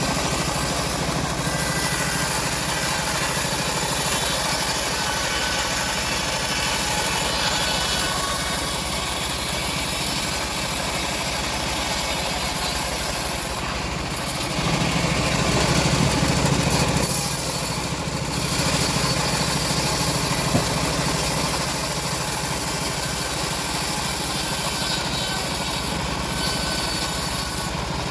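Locally assembled bandsaw sawmill running steadily while ripping an old teak log. Its sound swells briefly and dips a little past halfway through.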